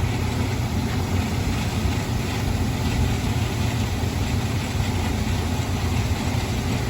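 Two-door Chevy Tahoe's engine idling steadily with a low, even rumble while its A/C is being switched on and off for testing.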